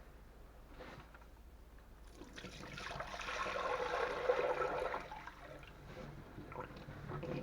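Water pouring and splashing, swelling to a gush about three to four seconds in and dying away about a second later.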